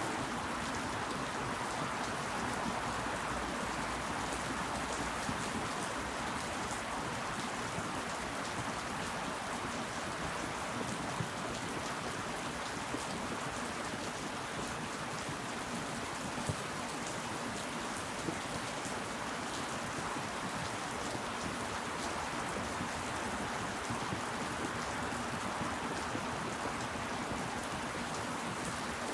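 Steady rain falling, a dense even patter with scattered individual drops ticking, a few of them slightly louder.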